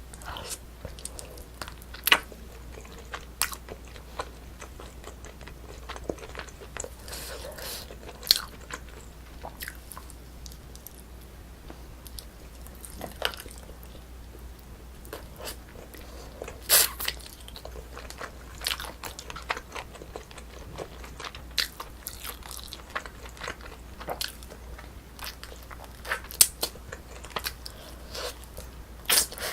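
A person chewing and biting food close to the microphone, with scattered crunches and sharp clicks over a steady low hum.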